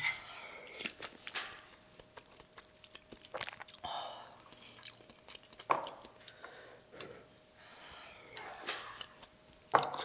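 A person chewing a spoonful of food close to the microphone, with irregular wet mouth clicks and smacks. A faint steady tone hums underneath for the first two-thirds.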